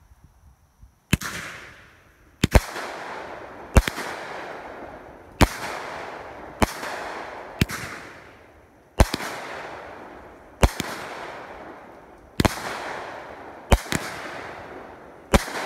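A 200-gram, 10-shot consumer fireworks cake firing its shots one after another, starting about a second in. Each shot is a sharp bang followed by a fading hiss, coming roughly every one to two seconds.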